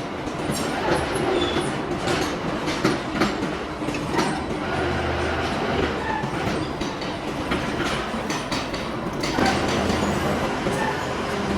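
Metal-turning lathe running: a steady low machine hum with irregular clattering and knocks throughout, and the hum swelling for a second about five seconds in and again near the end.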